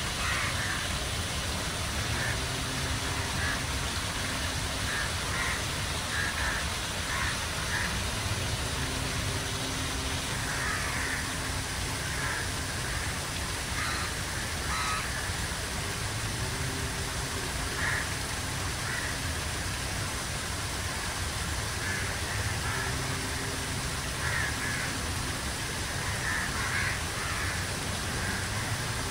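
Birds calling in short calls every second or two over a steady background rush.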